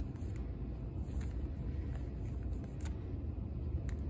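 Steady low background rumble, with a few faint scattered clicks from bagged plastic model-kit parts being handled.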